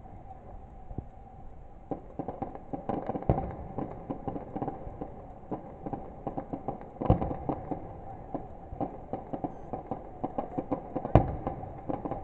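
Fireworks going off: a rapid run of sharp crackling reports begins about two seconds in, with three much louder bangs spread through it.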